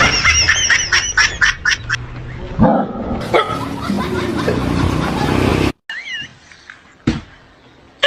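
A dog making a run of short, sharp vocal sounds, followed by a noisier stretch. The sound cuts off abruptly about three-quarters of the way through, leaving faint quieter sounds.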